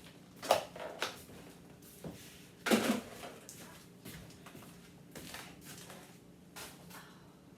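Food containers and packages being handled and set down while a refrigerator is cleared out: a string of clunks and rustles, the loudest about half a second and about three seconds in.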